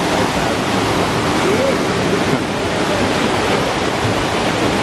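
River water rushing over a waterfall and its cascades, a loud, steady rush.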